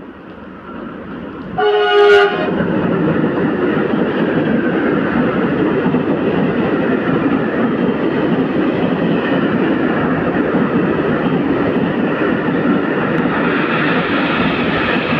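A train sounds one short horn blast about two seconds in, then runs past close by with a loud, steady rolling noise of wheels on rails.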